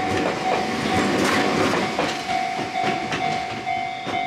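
Enoshima Electric Railway (Enoden) train passing close by at a level crossing, its wheels clacking over the rails, while the crossing's warning bell rings a steady, evenly repeated ding a little over twice a second.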